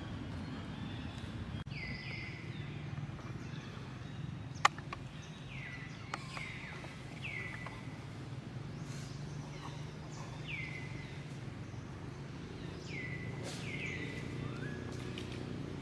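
Repeated short high calls, each sliding down in pitch, over a steady low hum, with one sharp click about four and a half seconds in.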